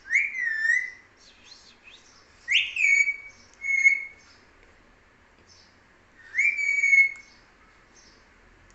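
Pet parrot whistling: four loud whistles, each sliding up sharply and then holding or dipping in pitch, with soft chirps in between.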